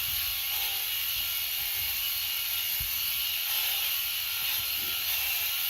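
Electric animal shearing clippers running steadily with a high, even whirr as a goat is sheared.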